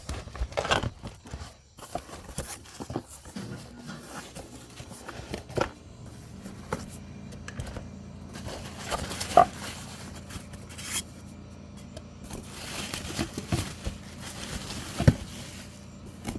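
Packaging of a new set of park lights being handled and opened: irregular scraping and crackling with scattered sharp knocks. A steady low hum comes in about six seconds in.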